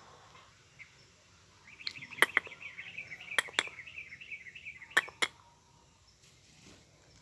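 A bird's rapid chattering call, a run of high notes lasting about three and a half seconds from about two seconds in, with three pairs of sharp clicks over it.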